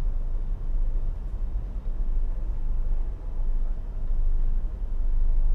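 Low, steady rumble of a ship's diesel engine running.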